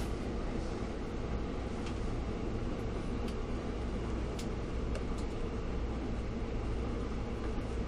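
Steady low hum inside a standing NJ Transit passenger train car, with a few faint clicks.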